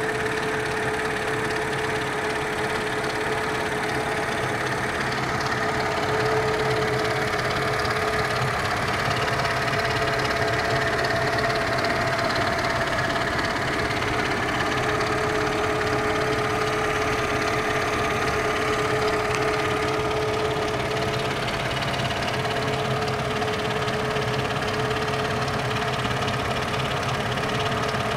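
Mercedes-Benz W210 E240's M112 V6 engine idling steadily, with a few thin steady tones over the engine note.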